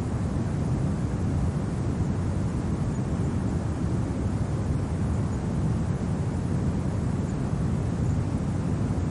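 Steady low wind noise, an even rumbling rush with no gusts or separate events.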